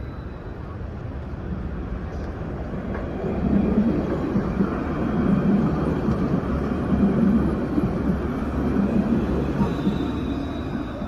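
Paris T3b tram running on its rails, a steady rumble that grows louder about three seconds in and eases off near the end.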